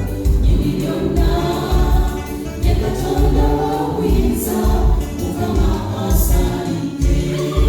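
A gospel choir singing over a steady drum beat, with a strong low pulse about every two-thirds of a second and a few high cymbal-like crashes.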